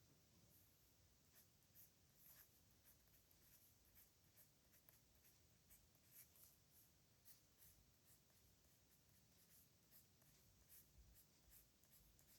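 Faint scratching of a pen on paper in short, irregular strokes as characters are written.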